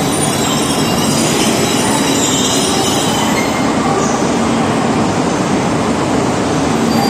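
A Shinkansen train of coupled E2 and E3 series sets pulling into the platform. The running gear makes a loud, steady rumble, with short high-pitched wheel squeals over it.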